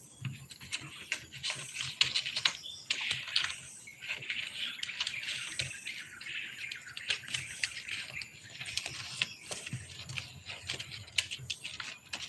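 Outdoor ambience with bird chirps and insect calls, broken by many sharp, irregular clicks and taps.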